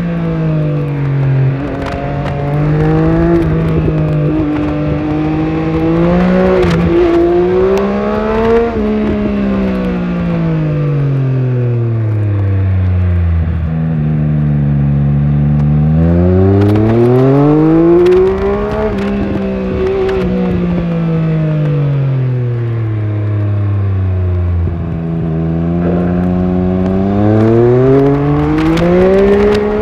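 Triumph Speed Triple 1200RS's inline three-cylinder engine on the move, its pitch climbing under acceleration and dropping as the bike slows, three times over. There is a short low stretch in the middle before it pulls away again.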